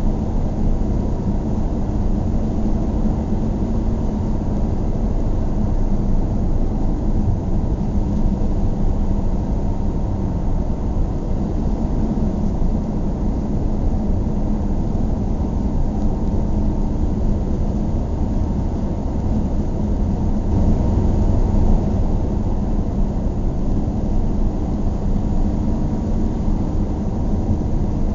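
Steady low rumble of a car on the move: engine and tyre noise, swelling slightly about 21 seconds in.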